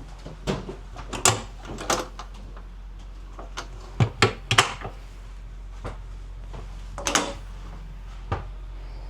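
A string of sharp knocks and clatters, like doors, lids or gear being handled, loudest about a second in, at about four seconds and at about seven seconds, over a steady low hum.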